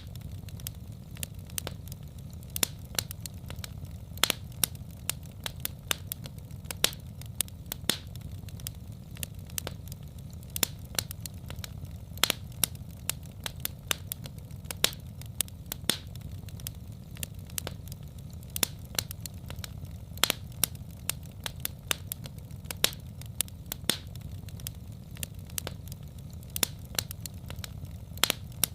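Wood fire crackling in a fireplace: sharp, irregular pops and snaps, several a second, over a steady low rumble.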